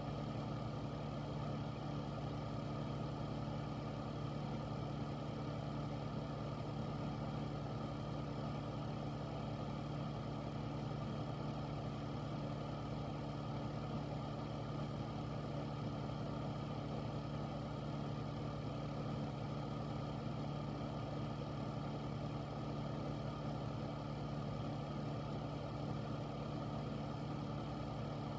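Air filter (air purifier) fan running steadily: an even low hum with a rush of moving air over it, unchanging throughout.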